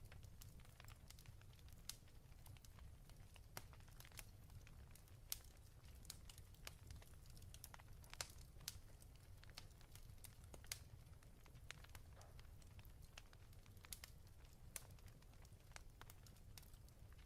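Faint fireplace fire crackling: irregular small pops and snaps over a low steady rumble.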